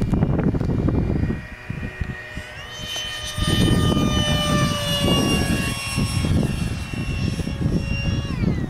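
Electric ducted fan of a Freewing F-35 foam RC jet whining in flight. Its pitch rises about three seconds in, stays high, then drops near the end. Gusty wind rumbles on the microphone underneath.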